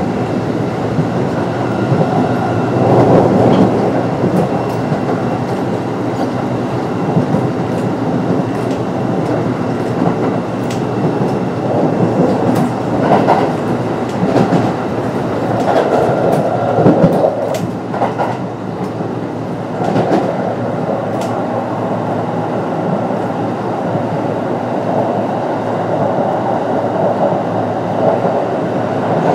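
Kintetsu 9020 series electric train running at speed, heard from inside the car: steady rumble of wheels on rail with scattered sharp clicks as the wheels pass rail joints.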